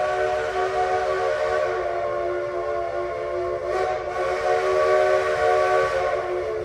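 Steam locomotive whistle sounding one long blast, a chord of several steady tones, fading out right at the end.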